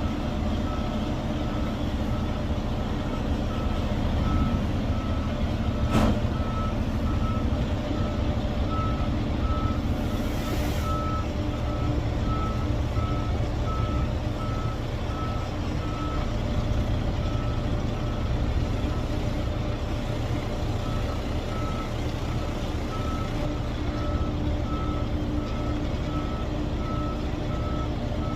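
Semi truck backing up: a backup alarm beeps at an even pace over the steady rumble of the diesel engine, stopping for a few seconds about two-thirds through and then starting again. There is a single sharp knock about six seconds in.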